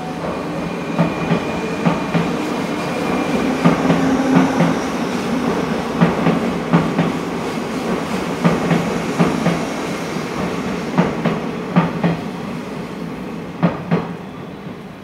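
JR 201 series electric commuter train moving past the platform. Its running noise carries clusters of wheel clacks over rail joints every couple of seconds, and it fades near the end.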